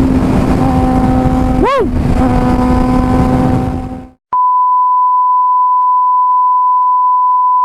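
Suzuki GSX-R600 inline-four motorcycle engine running at steady speed under heavy wind noise, with one quick rise and fall in engine pitch. The engine fades out about four seconds in and is replaced by a steady, single-pitched electronic beep tone for the rest.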